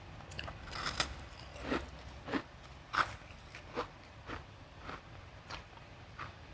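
Close-up crunching of refrozen crushed ice being bitten and chewed, in a string of sharp crunches, the loudest about one and three seconds in.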